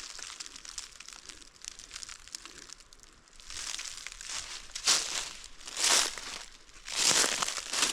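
Footsteps crunching through dry leaf litter on the forest floor, a step about once a second from about three seconds in, with a softer rustle before that.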